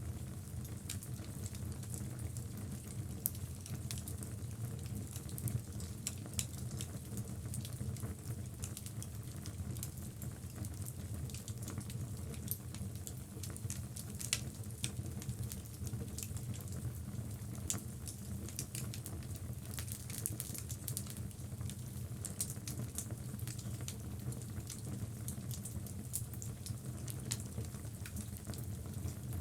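Logs burning in a fireplace: a steady low rush of flame with frequent irregular sharp crackles and pops.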